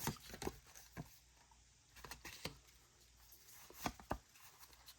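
Faint handling of a Pokémon booster pack and its cards: a scattering of soft clicks, taps and rustles, with small clusters about two seconds in and again near four seconds.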